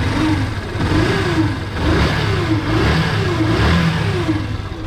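Yamaha FZ single-cylinder engine running and being revved up and down about five times in quick succession, with the stator's charging leads reconnected. This brings back the odd engine noise that the mechanic traces to the magnetic pull of the charging system on the clutch side of the engine, a noise often mistaken for a bad crankshaft bearing, piston or timing chain.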